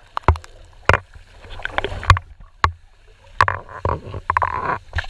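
Irregular knocks and clunks aboard a dive boat, with short bursts of rushing noise about three and a half seconds in.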